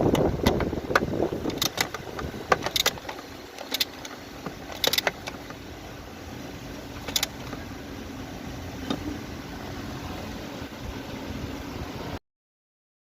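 Nissan Serena car engine running at idle on newly replaced spark plugs, louder in the first second or so and then steady. Scattered sharp clicks and knocks sound over it.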